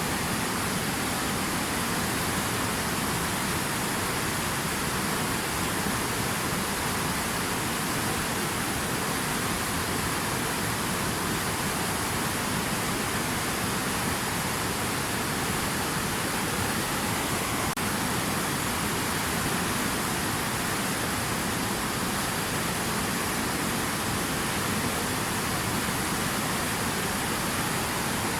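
Steady water noise: an even, unbroken hiss with no separate drops, splashes or changes.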